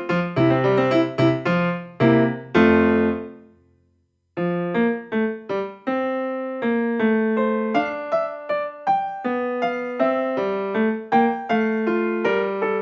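Background piano music: a quick melody of struck notes that dies away to silence about three seconds in, then a new, slower piano passage starts about a second later.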